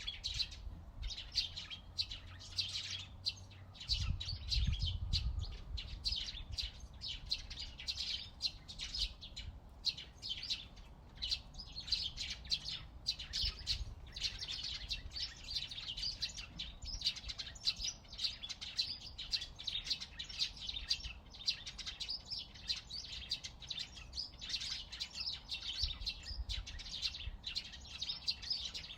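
Small birds chirping and singing in a dense chorus of quick, overlapping chirps, with a brief low rumble underneath about four seconds in.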